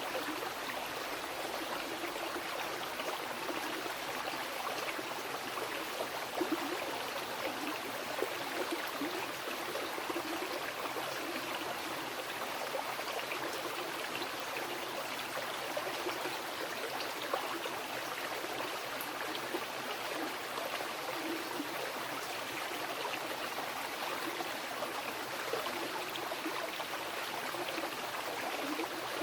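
Mountain river flowing over rocks: a steady rush of water with small gurgles.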